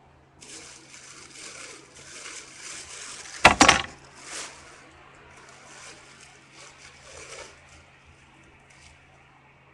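Shoe packaging being handled during a sneaker unboxing: rustling and scraping, with one sharp, loud crinkle or knock about three and a half seconds in. A faint steady hum runs underneath.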